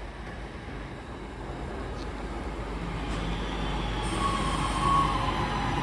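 Northern Class 323 electric multiple unit running in past the platform, its rumble growing steadily louder as it nears. From about four seconds in a high steady tone rises above the rumble and drifts slightly down in pitch.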